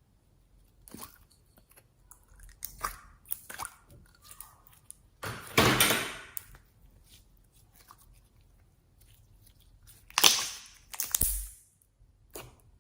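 Slime being squished and kneaded by hand: irregular sticky squelches and crackles. The loudest comes a little after the middle, with another pair near the end.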